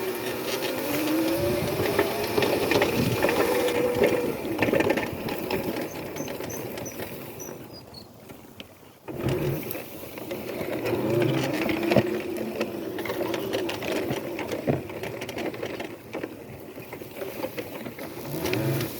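Razor electric dirt bike's motor and chain drive whining with a light rattle, rising in pitch as the bike speeds up. It fades almost out about eight seconds in, then whines up again.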